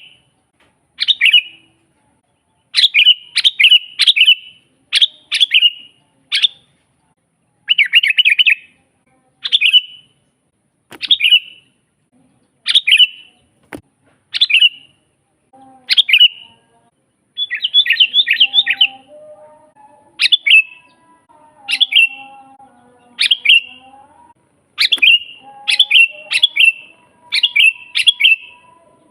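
Sooty-headed bulbul singing: short, bright chirping phrases repeated about once a second, some run together in quick bursts. A fainter, lower warbling sound comes in underneath from about halfway.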